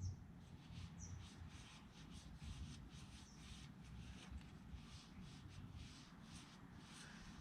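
Faint, rhythmic scrubbing strokes, about three a second, as an exhaust tip is rubbed clean by hand.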